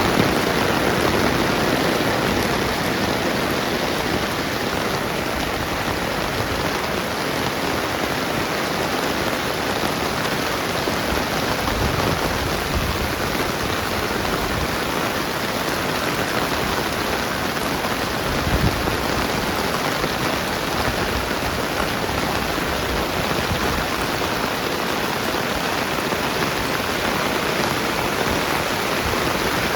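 Steady rain falling, an even, dense hiss that does not let up, with two brief low thuds about twelve and eighteen seconds in.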